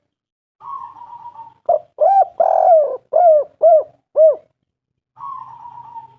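Spotted dove singing: a rough, purring coo, then a run of about six short arching coos with one longer note among them, then another purring coo near the end.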